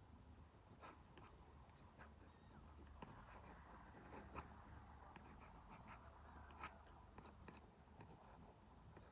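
Faint scratching of an Apple Pencil Pro tip stroking across an iPad fitted with a paper-like matte screen protector, with scattered light taps of the tip on the glass.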